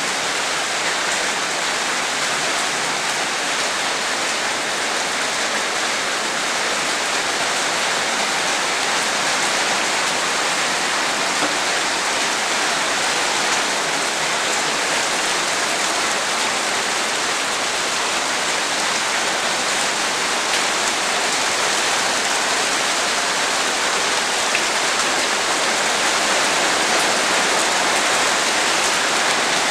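Heavy rain from a rainstorm pouring down steadily, an even, dense hiss that grows slightly louder near the end.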